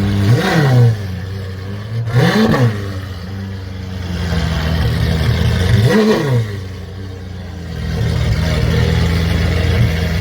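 Supercar engine idling and blipped three times, the revs shooting up and falling straight back each time.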